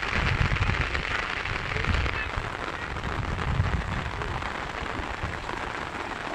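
Steady rain falling: an even hiss with an uneven low rumble beneath it.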